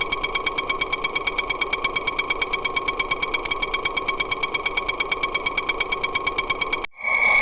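Rapid, even ticking of a running engine, about ten ticks a second, heard through a homemade empty-can mechanic's stethoscope, with a ringing tone over the ticks. Near the end it cuts off abruptly, and after a brief gap a steady high whine takes over.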